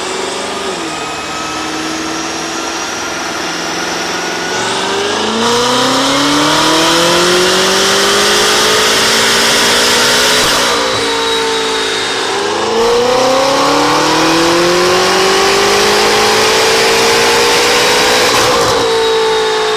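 BMW M5 (F10) twin-turbo V8 with an Armytrix valved exhaust and downpipes, accelerating hard: the exhaust note climbs steadily in pitch and drops sharply at each of three upshifts, the first about halfway through.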